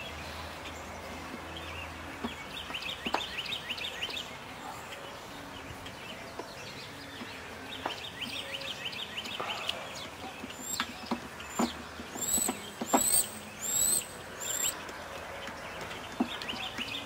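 Small birds chirping and trilling, with four louder calls about twelve to fifteen seconds in. A few light clicks here and there.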